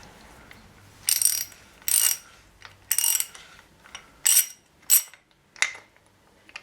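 Hand socket ratchet wrench worked in short strokes, clicking in six brief bursts about once a second.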